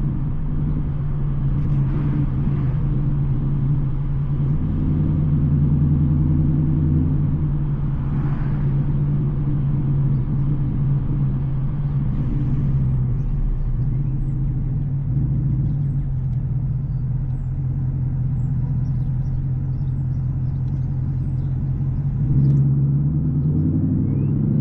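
Straight-piped Ford Mustang GT's 5.0 V8 running steadily at a cruise, a deep, even exhaust note. It gets louder and changes pitch near the end.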